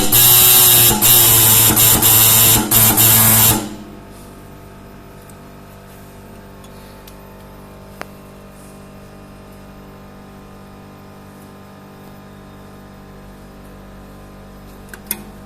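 Dot peen marking machine's stylus hammering a marking into a motorcycle exhaust silencer, a loud buzz with a few brief breaks that stops abruptly about three and a half seconds in. A low steady hum follows, with a faint click twice.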